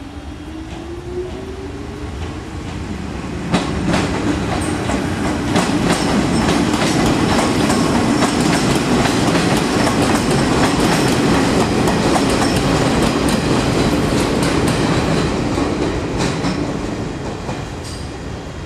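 Izuhakone Railway Daiyuzan Line electric train pulling away and passing close by. Its motor whine rises in pitch over the first few seconds, then the wheels clack over rail joints, loudest in the middle and fading near the end.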